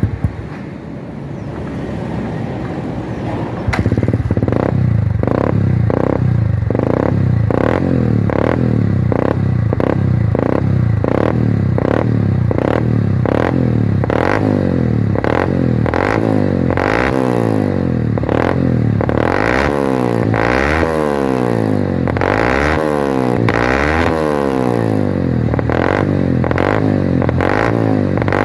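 Yamaha Vixion's single-cylinder four-stroke engine heard through its stock muffler, drilled out with a half baffle and a 45 mm outlet. It runs steadily, then from about four seconds in is revved in repeated quick throttle blips, and later in longer revs that rise and fall in pitch.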